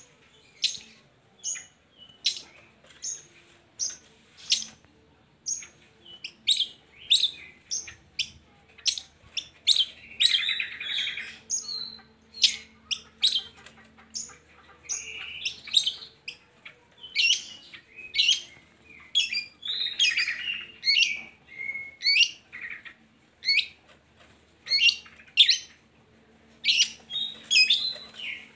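Long-tailed shrike (cendet) song, played as a lure to get other shrikes singing: a rapid, continuous series of short sharp chirps, broken by a few longer harsh rasping phrases.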